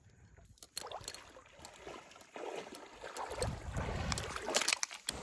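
Outdoor wind rumbling on the microphone, with scattered clicks and rustles of handling noise.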